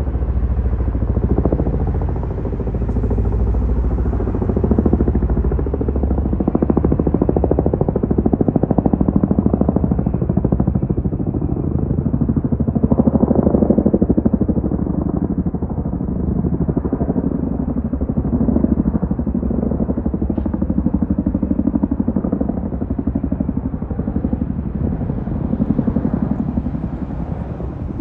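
CH-47 Chinook tandem-rotor helicopter running, its rotor blades beating in a fast, steady chop over deep engine noise, the level swelling and easing slightly over time.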